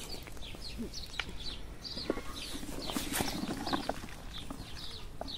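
Birds chirping over and over, with a few light knocks and a brief rustle about halfway through.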